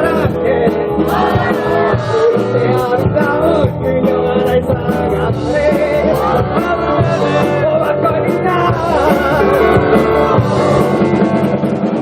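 A live band playing a rock-style song with a singer over drums and instruments.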